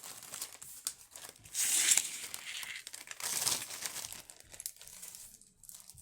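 Crinkling and rustling of packaging as jewelry is unwrapped by hand, in irregular bursts with two louder spells in the middle.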